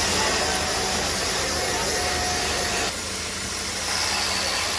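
An engine running steadily under a loud hiss, with a faint steady tone for the first few seconds; the sound drops a little about three seconds in.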